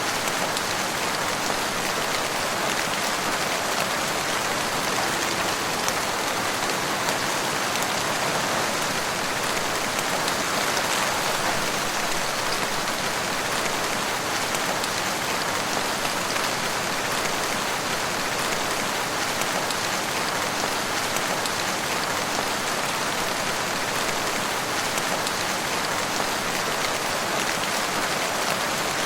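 Steady rain falling in a forest, an even continuous patter with no thunder.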